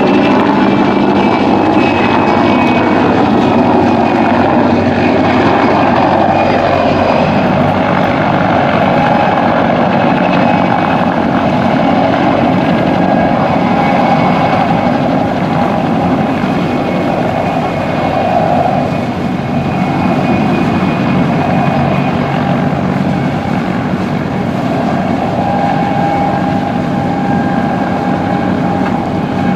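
PZL Kania helicopter with two turboshaft engines flying: steady rotor and engine noise with a thin, high whine over it.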